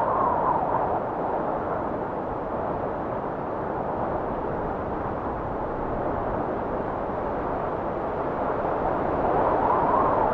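Blizzard wind blowing, a steady rushing that swells into a stronger gust near the end.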